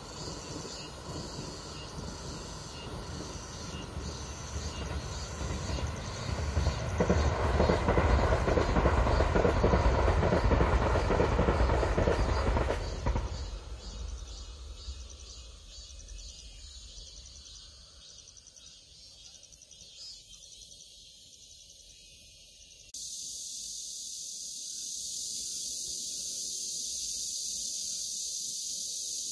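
ITX-Saemaeul electric multiple-unit train passing, its wheel-on-rail rumble building to a loud peak and then dropping away abruptly about halfway through. In the last few seconds, insects buzz steadily and high-pitched.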